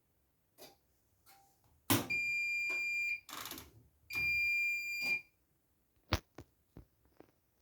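Siemens i-Dos washing machine beeping: two long, steady electronic beeps of about a second each, with a short rustling noise between them, then several sharp clicks.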